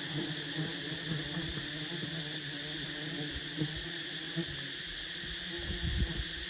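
Steady buzzing and chirring of insects, with a few soft low knocks partway through and near the end.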